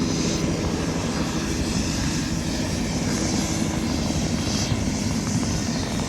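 Tour helicopter running close by: steady engine and rotor noise with a fast, even rotor beat, as the aircraft sets off on its flight.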